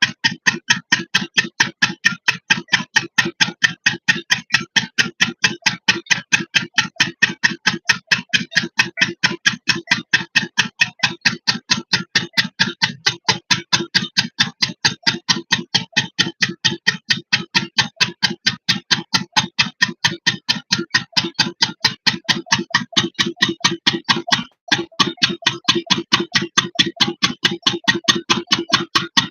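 8 hp stationary diesel engine running steadily, a loud regular knocking of a few beats a second. The beat breaks off for an instant about 24 seconds in, then carries on.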